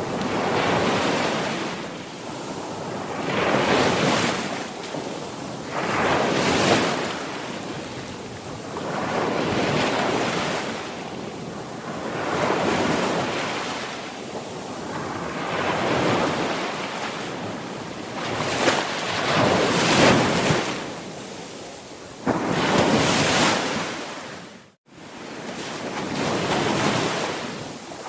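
Sea waves breaking and washing on a shore, swelling and falling away every two to three seconds. The sound cuts out abruptly for a split second near the end, then the surf resumes.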